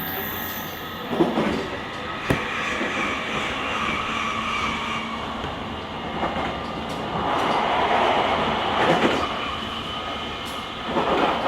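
JR Kyushu 883 series electric limited express (GTO-inverter motor car) running at speed, heard from inside the car's deck: steady wheel and rail noise with a faint whine. Sharp rail-joint knocks come through now and then, and the noise swells briefly near the end.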